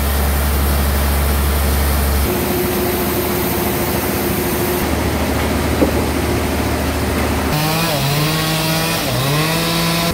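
Saw machinery running, its sound changing abruptly a few times. In the last couple of seconds a chainsaw engine's pitch dips and comes back up twice as it bogs down in the cut.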